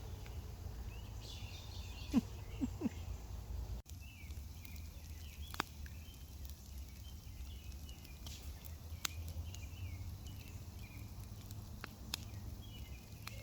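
Faint outdoor night ambience: a steady low rumble under faint high chirping, with a few brief sharp clicks or pops scattered through.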